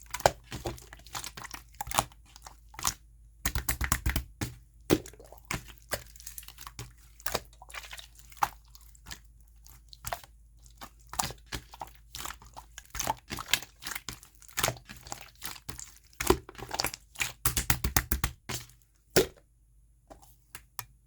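Clear slime being squeezed and worked by hand, making quick, irregular wet clicks and pops. The clicking stops about two seconds before the end.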